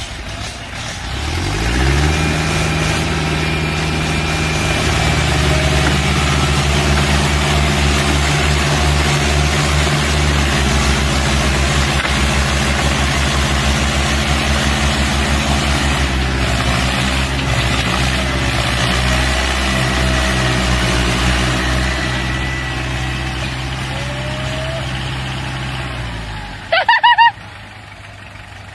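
Heavy vehicle engine speeding up about a second in, then running steadily and loud under a constant note before cutting out near the end. A short, loud high-pitched sound follows just after.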